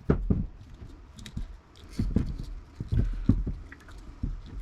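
Irregular light clicks, taps and knocks of small scrap parts being handled and sorted, over a low rumble.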